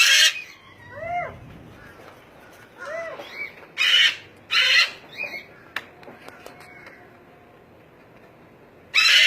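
Caged parrots calling: short rising-and-falling squeaky calls and several loud, harsh screeches, the loudest about four seconds in and again near the end.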